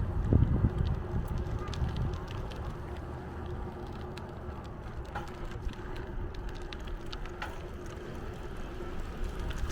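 Wind buffeting the microphone of a moving bicycle, over a steady rolling hum, with a few light clicks. The gusts are strongest in the first couple of seconds.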